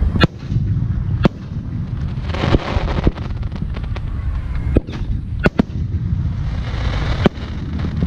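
Aerial firework shells bursting: about eight sharp bangs spaced irregularly, with two stretches of dense crackling, over a steady low rumble.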